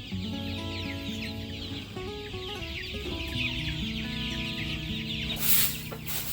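A flock of chickens calling, with many short high peeps and clucks throughout, over background music of held notes. There is a brief hissing noise near the end.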